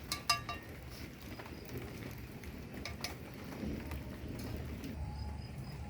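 A dish or utensil clinks once with a short ringing tone about a third of a second in, and there is a softer knock near three seconds, as eating things are tidied up. A low rumbling noise of rain runs underneath, and a dove starts cooing near the end.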